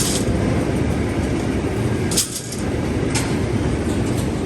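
Steady rumble of heavy factory machinery, with a few sharp metallic clinks and clicks: one at the start, a cluster about two seconds in, and one about three seconds in.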